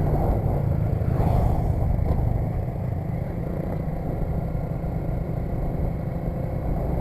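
Motorcycle engine running steadily, its sound sitting low.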